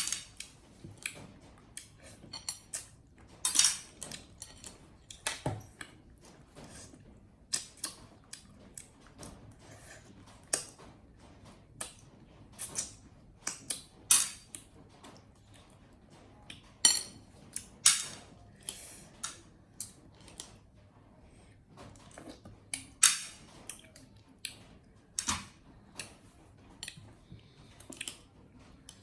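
Monkeys handling and eating food: irregular clicks, taps and rustles, some sharp, at uneven intervals throughout.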